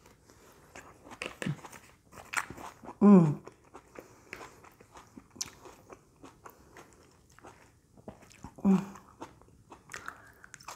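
A person chewing and crunching raw salad vegetables, with many short crunches and crackles. A short vocal sound comes about three seconds in and again near the nine-second mark.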